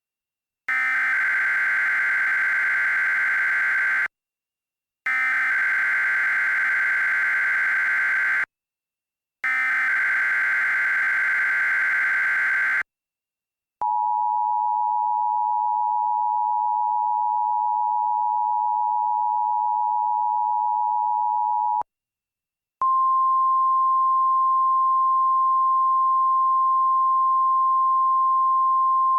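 Emergency Alert System tones. Three bursts of buzzy SAME header data, each about three and a half seconds long, are followed by the two-tone EAS attention signal held for about eight seconds. After a one-second break comes a single steady weather-radio alert tone, slightly higher in pitch.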